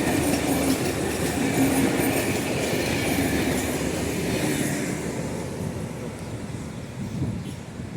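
Passenger train running past on the track, the steady rumble of wheels on rails fading away after about five seconds.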